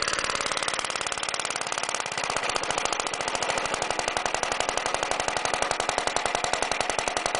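Villiers Mk20 single-cylinder two-stroke stationary engine running just after a cold start, firing rapidly and evenly through a Briggs & Stratton muffler fitted to its broken exhaust stub. Its governor is not connected, so the speed is held by hand.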